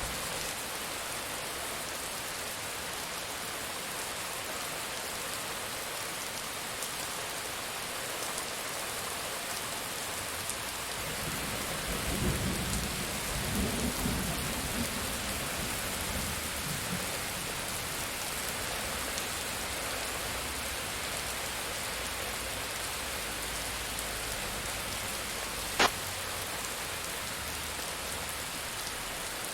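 Steady heavy rain hissing, with a low roll of thunder rumbling up and fading away in the middle. Near the end there is a single sharp click.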